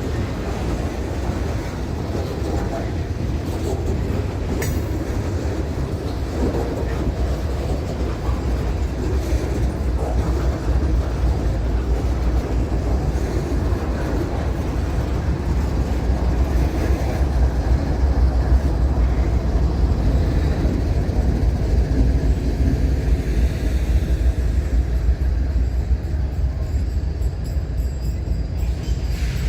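A train's cars rolling past on the rails, a steady low rumble that holds the whole time.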